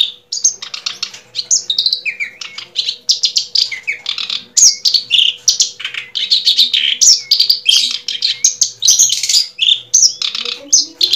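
Birds chirping and tweeting without a break: many rapid high chirps and short whistles gliding up and down, loud and close, over a faint steady hum.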